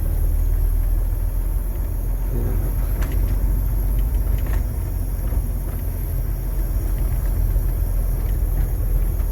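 Long-haul truck's diesel engine running with a steady low rumble as the truck rolls slowly, heard from inside the cab, with a few faint clicks.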